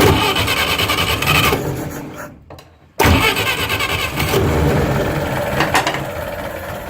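Universal Atomic 4 four-cylinder gasoline inboard engine started by jumping the starter solenoid, without choke: it turns over for about a second and a half and fades away, then catches abruptly about three seconds in and keeps running. It runs freely now that the water-clogged exhaust has been cleared and the muffler refitted, and it sounds much better.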